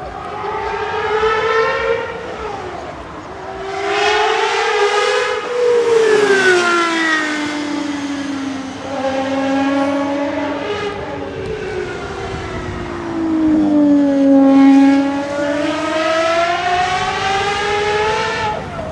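Gordon Murray T.50's naturally aspirated 3.9-litre Cosworth V12 running hard under acceleration, its high-pitched note rising and falling several times as it revs and lifts, loudest about three-quarters of the way through.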